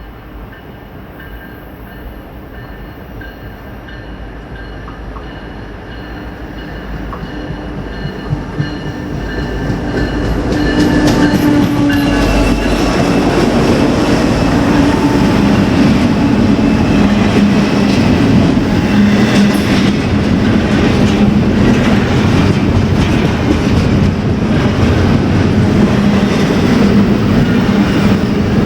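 BNSF intermodal freight train approaching and passing: the locomotives' diesel drone grows louder over about the first ten seconds, then gives way to a steady, loud run of rolling wheels with a rapid clicking over the rail joints.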